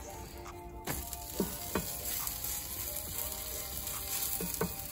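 Eggless besan omelette sizzling in oil in a cast-iron skillet, the sizzle growing louder about a second in as the flipped side meets the hot pan. A metal spatula scrapes and presses against it now and then.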